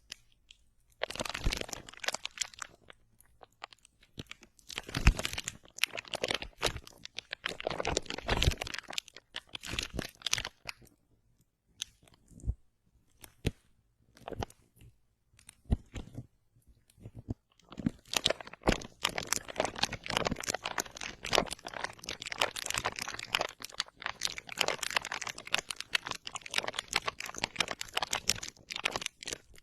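Close-miked crunchy, crackling ASMR sounds in dense runs of clicks. The runs break off into short quiet gaps, and a long run starts about two-thirds of the way in.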